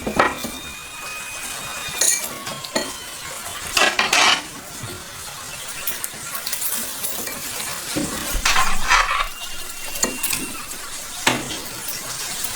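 Metal utensils clinking and scraping against cookware in a handful of irregular strokes, with a faint sizzle of food cooking underneath.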